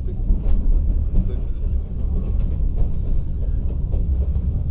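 Steady low rumble of a passenger train carriage running on the rails, heard from inside the carriage, with a few faint clicks.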